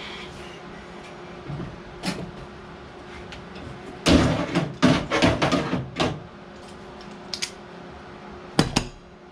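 Knocking and clattering of tools or metal parts being handled, over a steady hum. A few single knocks come early, a burst of clattering about four to six seconds in, and two quick knocks near the end.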